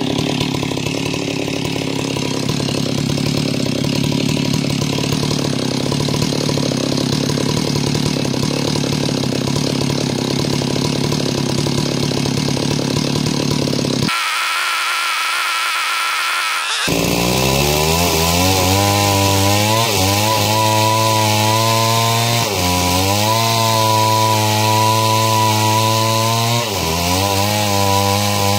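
Stihl two-stroke chainsaw running at full throttle while ripping a log lengthwise into planks. The engine pitch dips under load and recovers three times in the second half. About halfway through, the sound goes thin for roughly three seconds.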